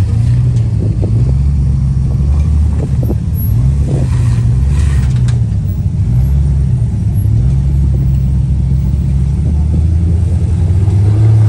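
Motor vehicle engine running under changing throttle, its low note wavering up and down every second or two and climbing right at the end, with a few faint knocks.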